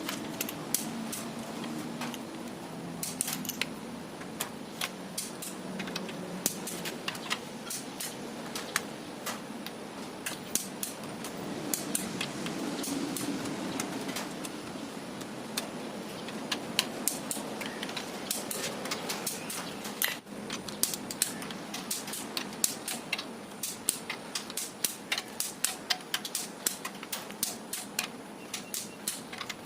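Irregular metallic clicking and tapping of hand tools and parts as rocker arms are pressed down and fitted on a SOHC cylinder head. The clicks grow quicker and more regular in the second half, over a steady low hum.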